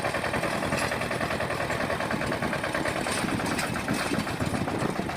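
Engine of a sanedo mini tractor, a home-built tractor made from motorcycle parts, running steadily with a fast, even chugging beat.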